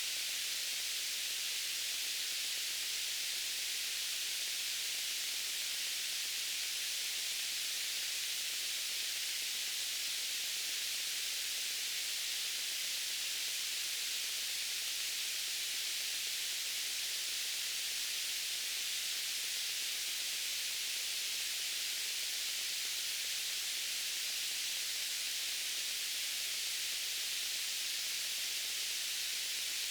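Steady white noise: an even high hiss that does not change.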